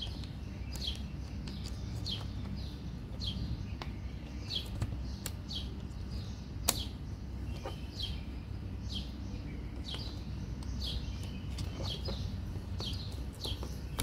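A small bird chirping over and over, short falling chirps about once or twice a second. Now and then a sharp click from the plastic door-lock switch being handled, the loudest a little before the middle.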